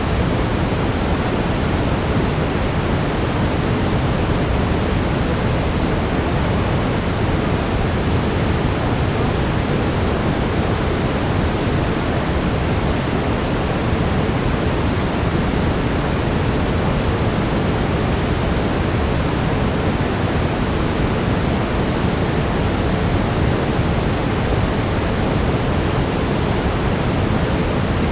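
Steady brown noise: an even, unchanging deep hiss, heaviest in the low end and thinning out toward the top.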